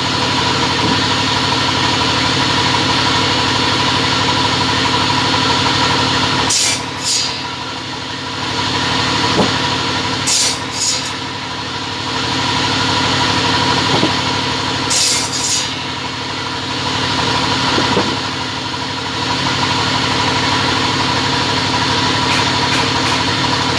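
Double-end cutting machine running, its motors giving a steady mechanical hum. Brief high-pitched bursts come three times.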